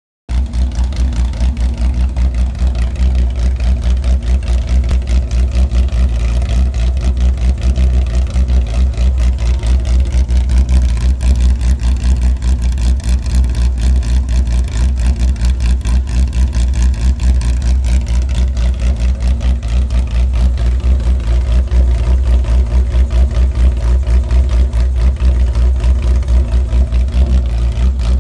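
1973 Porsche Carrera RSR's air-cooled flat-six race engine idling steadily during warm-up, with a lumpy, pulsing beat.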